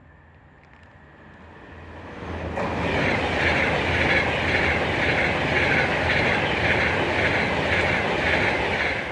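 Class 390 Pendolino electric train passing through the station, coming in about two seconds in and staying loud, with a regular pulsing rush as its wheels and carriages go by.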